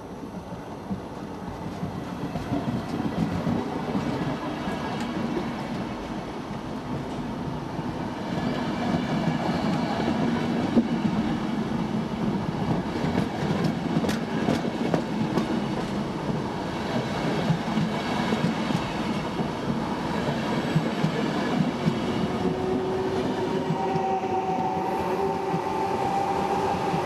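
Regional passenger train of coaches pushed by a Trenitalia E.464 electric locomotive, rolling past close by as it pulls out of the station: a steady rumble with wheels clicking over the rail joints. Near the end a steady whine from the passing locomotive joins in.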